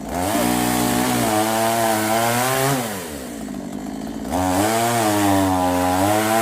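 Chainsaw run up to full throttle twice, each burst about three seconds long, dropping back toward idle in between.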